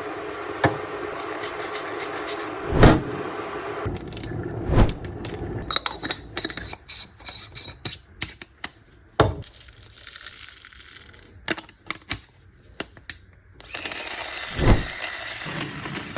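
Coffee gear being handled: a run of clicks, knocks and scraping with four heavier thumps, over stretches of steady noise.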